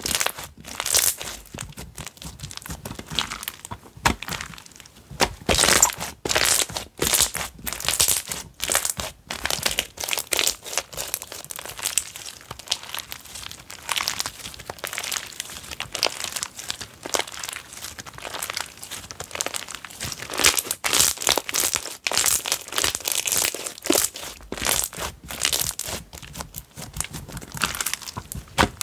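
Slime being squeezed, poked and stretched by hand, giving a dense run of irregular crackles and pops.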